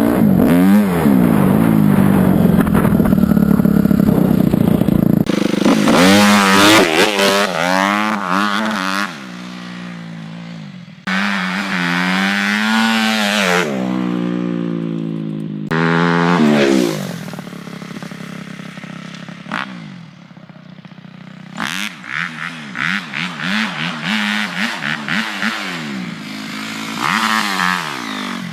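Dirt bike engine being ridden and revved, its pitch climbing and falling again and again as the throttle opens and closes.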